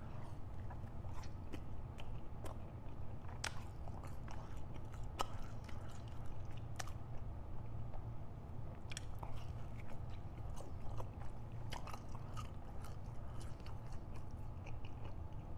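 Close-miked biting and chewing of a soft breadstick dipped in marinara sauce, with many sharp wet mouth clicks and smacks over a steady low hum.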